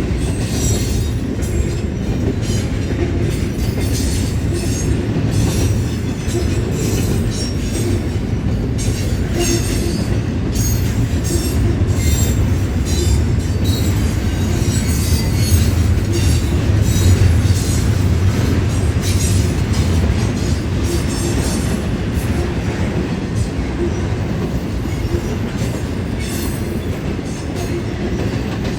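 BNSF intermodal freight train rolling past on its way out of the yard: a steady low rumble of wheels on rail, with frequent short high squeals and clicks, swelling a little in the middle.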